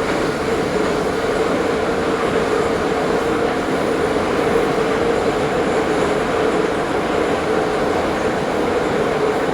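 Ezh3 metro train running between stations: a steady rumble of wheels on rail with a constant hum.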